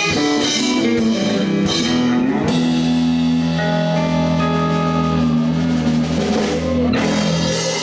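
Live blues band playing with electric guitar, bass and drum kit, then holding a long sustained chord with cymbal wash from about two and a half seconds in until near the end.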